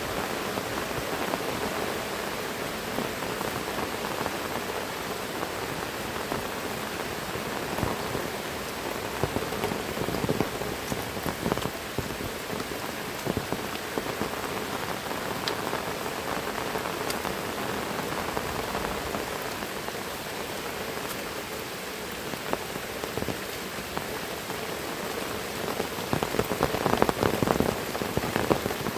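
Heavy rain falling steadily, with close drops tapping on surfaces; it gets a little louder near the end.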